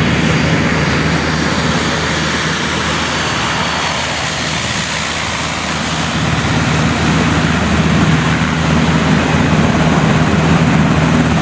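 Turbine aircraft running close by: a loud, steady drone with a rapid beating pulse. It dips slightly in the middle and swells again toward the end.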